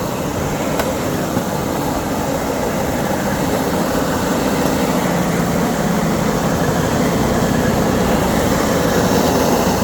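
Steady engine drone of a travelling vehicle, slowly growing louder.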